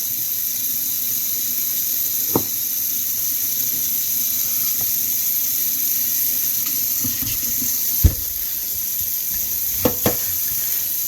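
Steady, water-like hiss of a busy kitchen, broken by five sharp knocks of a knife striking a cutting board; two of the knocks come close together near the end.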